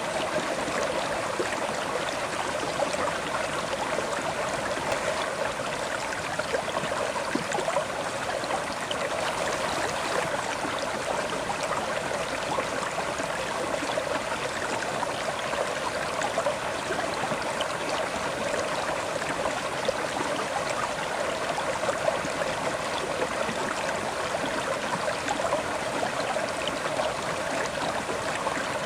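River water flowing and splashing over rocks, a steady babbling rush with small gurgles.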